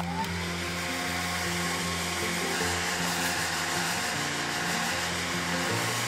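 Hand-held hair dryer blowing steadily, drying a wet watercolour wash on paper.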